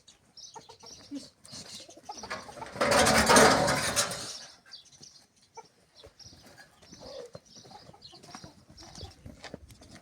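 Birds chirping faintly, with one loud rough rushing noise lasting about two seconds, starting about two and a half seconds in.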